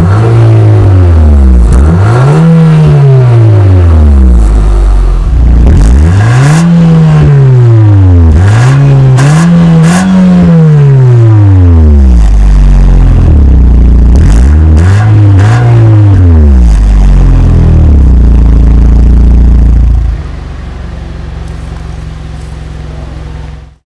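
Nissan Juke Nismo's 1.6-litre turbocharged four-cylinder engine revved repeatedly, about seven times, the pitch climbing and falling back on each blip. About twenty seconds in it drops to a steady, quieter idle, which cuts off suddenly near the end.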